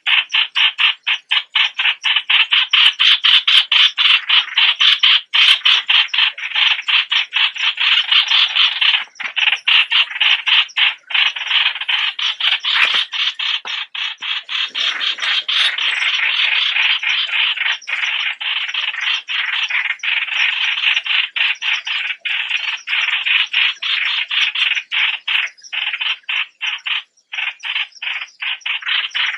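Streak-eared bulbul calls: a loud, continuous stream of rapid chattering notes, many each second, with brief breaks.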